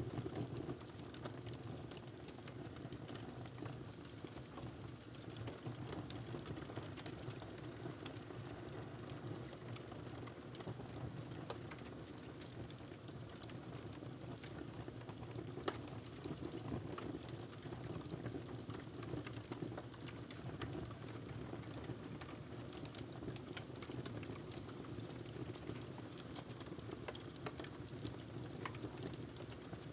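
Wood fire crackling in a fireplace: scattered sharp pops and snaps over a steady low rushing bed.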